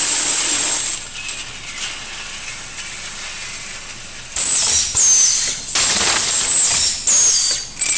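Sawmill band-blade cut-to-length machine running on steel blade stock fed from a spool. A loud hiss for the first second gives way to a quieter hiss. From about halfway in come several loud bursts of hiss, each with a high squeal that falls in pitch.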